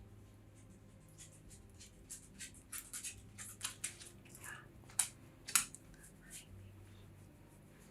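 Close handling noises: a quick run of short, crisp rustles and snips, ending in two louder ones about five seconds in.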